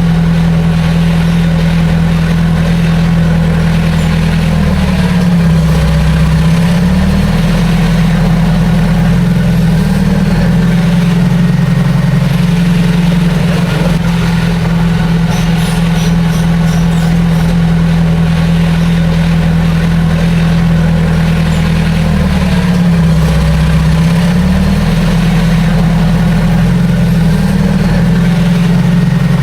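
Heavy diesel engine of earthmoving machinery running steadily with a deep hum. Its pitch sags briefly and recovers twice, about five seconds in and again about twenty-three seconds in.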